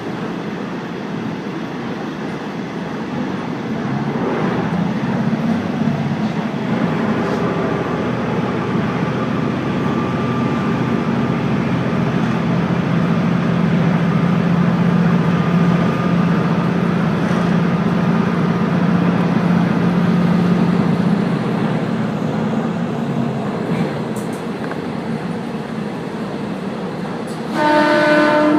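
Running noise of a diesel railcar under way, its engine drone strengthening and holding steady in the middle stretch. Near the end a train horn sounds briefly and loudly.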